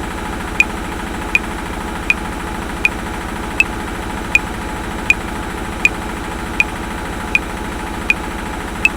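Metronome clicking at 80 bpm in 7/4, with a slightly stronger accent click every seventh beat, over the steady running noise of a washing machine.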